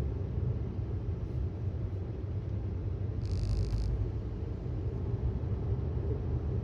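Steady low road and tyre rumble inside the cabin of a 2018 Tesla Model S 75D on the move, with no engine note from the electric drive. About three seconds in, a brief high-pitched tone sounds for under a second.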